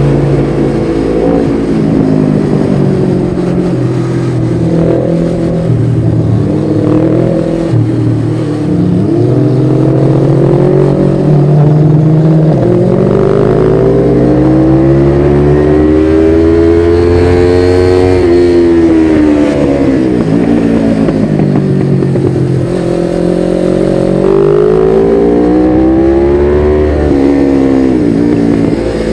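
1993 Suzuki GS500E's air-cooled parallel-twin engine running through a Takkoni slip-on exhaust with its dB killer fitted, under way on the road. The revs climb slowly to a peak about eighteen seconds in and drop away, then rise and fall again near the end.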